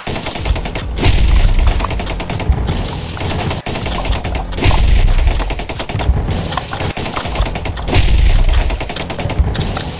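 Motorized drum-fed toy foam-dart blaster firing on full auto, a rapid string of shots with several louder stretches.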